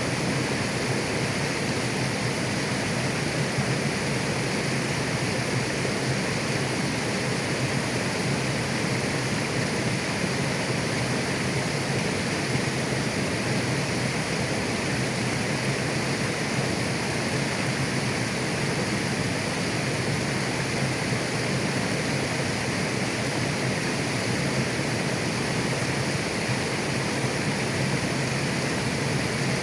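Mountain river flowing over rocks: a steady rushing of water.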